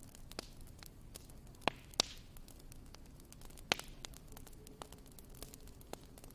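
Wood fire crackling in a fireplace: irregular sharp pops and snaps over a low steady rush. Two louder pops come close together about two seconds in, and another just before four seconds.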